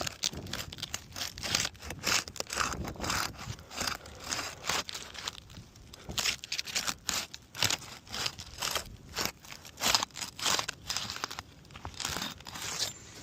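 Roof shingles being pried up, their sealed tabs tearing and crackling loose in a quick run of short, irregular rips. This is the bond between the courses being broken so that a wind-damaged shingle can be removed.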